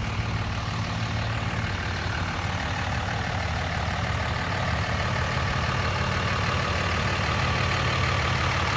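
Cummins 24-valve turbo-diesel inline-six in a 2004 Dodge Ram 2500 idling steadily, a low even drone.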